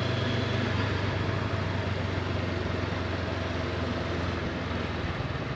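Honda CB500X parallel-twin engine running at steady speed while riding, with wind and road noise over it; the engine note eases off near the end.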